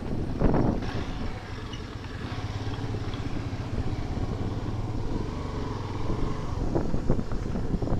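Motorcycle engine running steadily on the move, with a couple of louder rumbles about half a second in and near the end.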